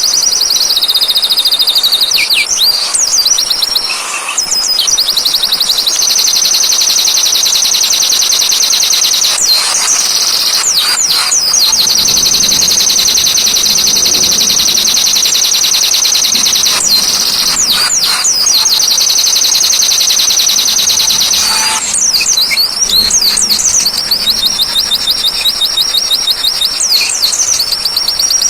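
Peleci song used as a training recording: a loud, high-pitched, very fast trill that runs almost without a break, cut a few times by short sweeping chirps, over an even rain-like hiss.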